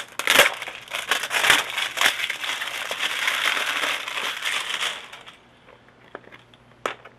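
Packaging of a grommet assortment being torn open and handled: dense crinkling and crackling that stops about five seconds in, followed by a single sharp click near the end.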